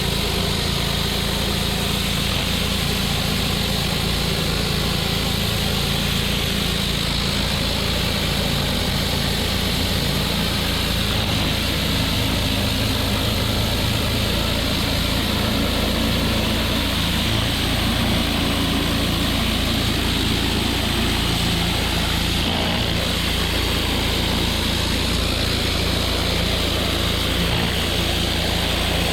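Pressure washer running steadily: a small engine hum under the even hiss of the high-pressure water jet spraying.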